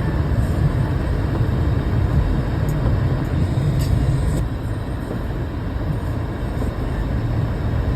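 Steady low rumble of a car driving: engine and tyre noise on the road, continuous throughout.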